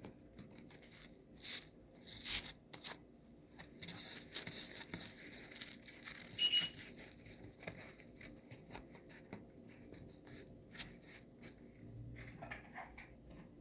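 Faint, scattered rustling, scraping and small clicks of craft material being tucked and folded by hand. A brief high squeak about six and a half seconds in.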